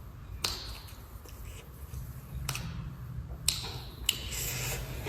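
Someone eating at a meal: a handful of sharp clicks and taps, about four spread through, over a faint low hum that comes in about halfway.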